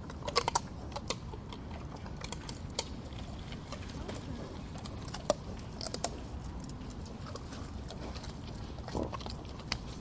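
Pig wallowing in a muddy puddle, giving a few short soft grunts and snuffles among small wet clicks, over a steady low rumble.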